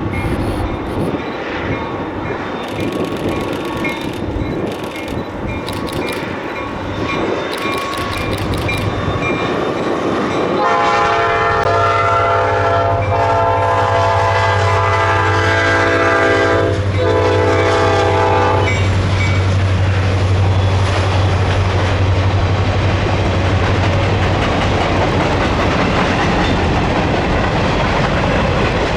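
A passing train's diesel locomotive sounds its multi-note air horn about ten seconds in, holding it for roughly eight seconds with a brief break. The locomotive's engine hum and the rumble and clatter of wheels on the rails carry on underneath.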